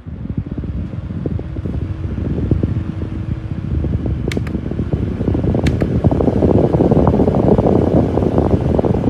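Battery-powered camping fan running, its airflow buffeting the microphone as a loud rushing noise. It grows stronger about six seconds in, just after short clicks of its speed button.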